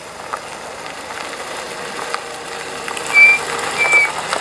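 Cars moving slowly past, a steady engine and tyre noise with small clicks, and two short high-pitched beeps about three and four seconds in.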